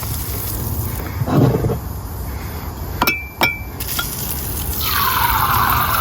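A glass clinks twice, then about five seconds in a tap is turned on and water rushes steadily into it.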